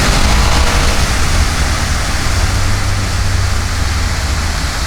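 A loud, steady rushing noise with a heavy low rumble, starting abruptly just before and running without a break.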